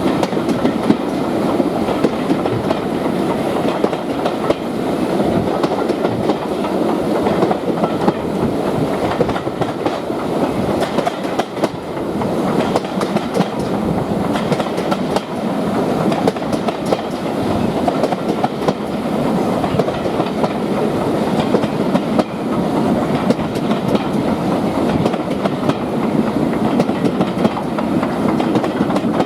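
A train running along the rails: a steady, loud rumble of wheels on track with many small clicks.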